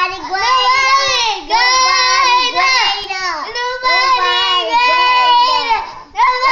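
Toddlers singing a praise song in high, drawn-out phrases that slide in pitch, breaking off briefly about a second and a half in and again near the end.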